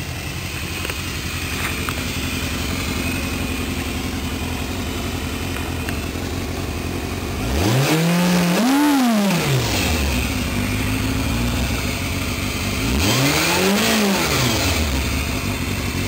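2002 Yamaha YZF600R's inline-four engine through a Micron aftermarket exhaust, idling steadily and then revved twice, each rev rising and falling back to idle, the first about halfway through and the second near the end.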